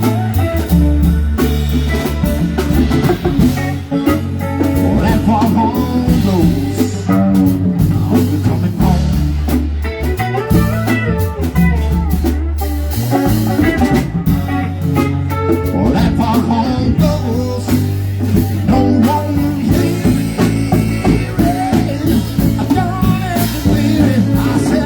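Live band playing an instrumental break: melodic lead over steady bass and drums.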